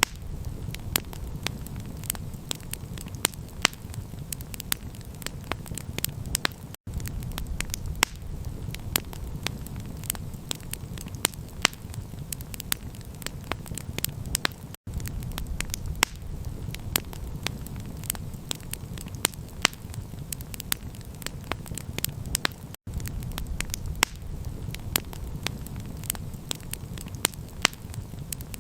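Campfire of burning wood crackling, with frequent sharp pops and snaps over a steady low rumble. The sound cuts out for an instant about every eight seconds.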